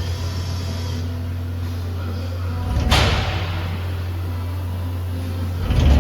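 Mikron HEM 500U 5-axis machining centre running with a steady low hum, broken twice by a short, loud whoosh: once about halfway through and again near the end.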